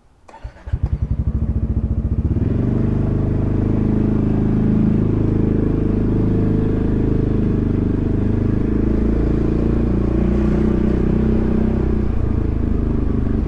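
Yamaha XMAX 300 scooter's single-cylinder four-stroke engine starting up about half a second in, catching with a quick run of firing pulses and then running steadily.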